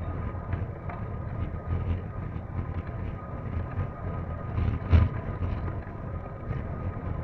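Wind buffeting the microphone over a low rumble, with light rattling and ticking throughout and one louder knock about five seconds in.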